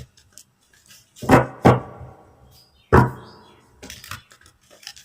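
Tarot cards being handled on a table: three sharp knocks, about a second and a half and three seconds in, with softer ticks of cards in between.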